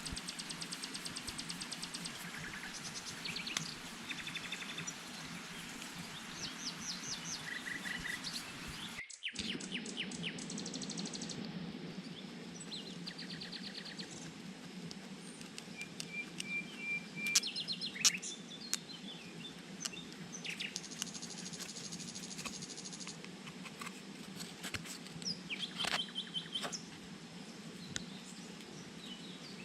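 Birds chirping and trilling in short repeated phrases over a steady low background hum, with a few sharp knocks or taps in the middle.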